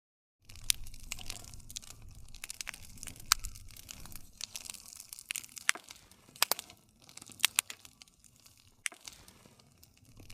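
Wood fire crackling, with many irregular sharp pops and snaps over a low rush of burning. It starts abruptly about half a second in, after a moment of dead silence.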